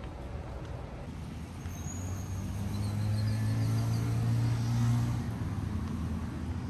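A motor vehicle's engine running close by in street traffic: a steady low hum that grows louder, then drops away about five seconds in.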